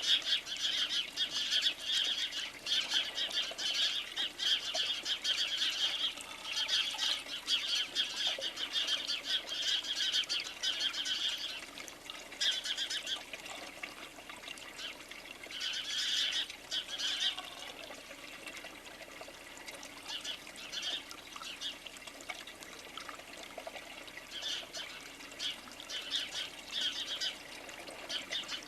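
Tree sparrows chirping in a dense, busy chatter that thins after about twelve seconds into scattered bursts of calls.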